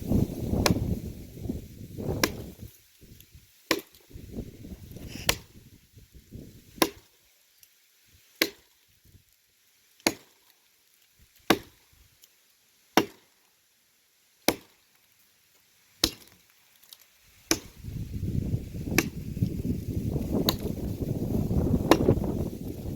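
Wood being chopped with a blade in steady, even strokes, about one sharp chop every second and a half. A low rumbling noise underlies the chops at the start and again from about three-quarters of the way through.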